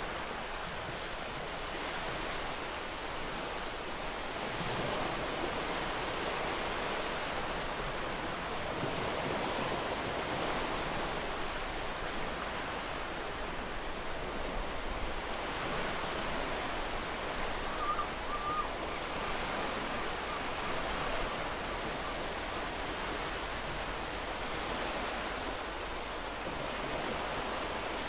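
Ocean surf washing onto the shore in a steady rush of water noise that swells and eases gently every few seconds.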